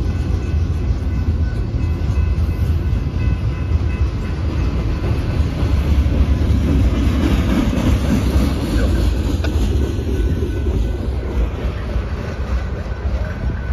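Union Pacific maintenance-of-way train rolling past, a loud steady rumble with its wheels clacking over the rail joints. It eases off slightly near the end as the train moves away.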